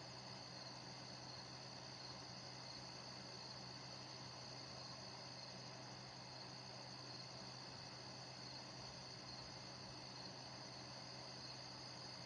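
A steady night chorus of crickets chirping, with the low, even hum of a neighbour's air conditioner running underneath.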